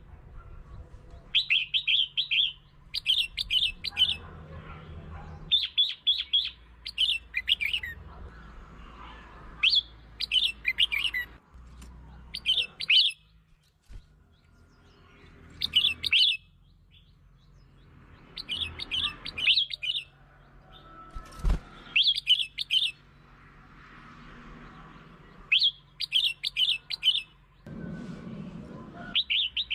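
Red-whiskered bulbul song: short, bubbly warbled phrases repeated every second or two with brief pauses, over a faint low hum.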